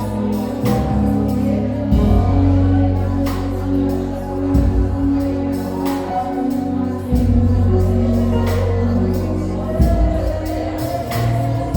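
Live gospel worship music with singing over a band, deep bass notes changing every two to three seconds.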